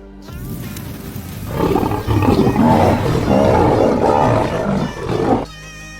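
A big-cat roar, rough and loud, starting about a second and a half in and cutting off suddenly near the end, over background music.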